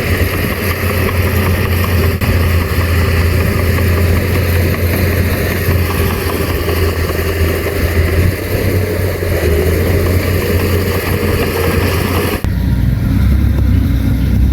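Heavy diesel engine of a bulldozer running steadily with a deep hum. About twelve seconds in, it switches abruptly to a duller, lower engine sound.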